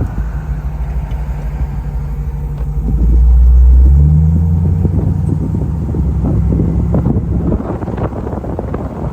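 1956 Ford Thunderbird's V8 engine running with a low rumble, swelling louder about three seconds in and then stepping up in pitch at about four seconds, as when the engine revs or the car pulls away.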